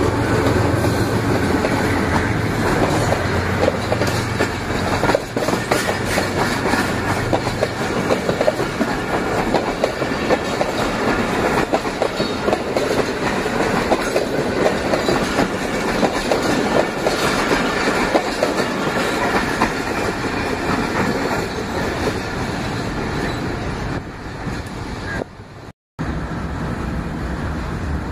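Pakistan Railways diesel locomotive passing close with its engine running, followed by a long string of passenger coaches rolling past, their wheels clattering steadily over the rail joints. Near the end the sound cuts off abruptly, then a low steady hum follows from a distant train.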